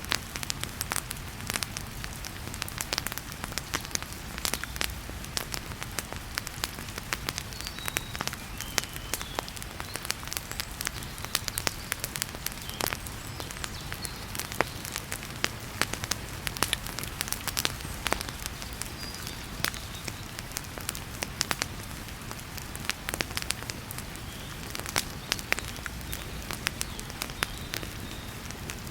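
Wood fire crackling with frequent sharp pops, over a steady hiss of heavy rain.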